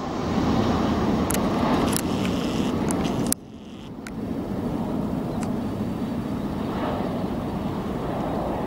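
Airliner engine noise, a steady low rumble, heard in short spliced clips: the sound cuts abruptly about two seconds in and again about three and a half seconds in, quieter for a moment before building back up.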